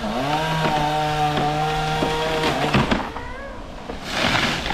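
Chainsaw running at high speed through a cut, its pitch sagging briefly at the start and then holding steady. A little under three seconds in, it drops back toward idle with short throttle blips, and a brief rush of noise comes near the end.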